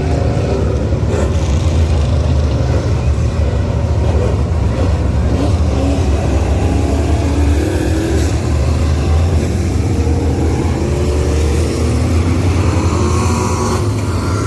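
Dirt-track modified race car engines running loud and steady, their pitch rising and falling as they rev.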